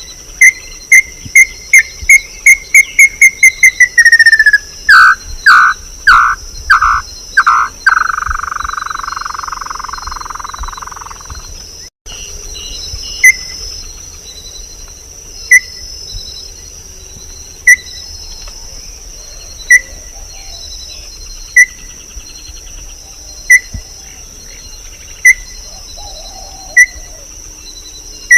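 A bird whistling a run of loud repeated notes that speed up and drop in pitch, ending in a trill of several seconds. After a break about twelve seconds in, single short whistled notes come about every two seconds. A steady high insect drone runs underneath.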